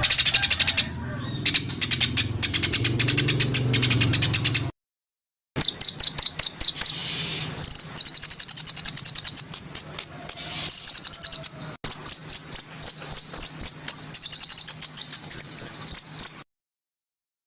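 Songbird recording of rapid runs of sharp, high chirps, several a second, some notes slurring up and down, in spliced stretches that cut off abruptly into silence about five seconds in and near the end: a masteran song track for training cage birds.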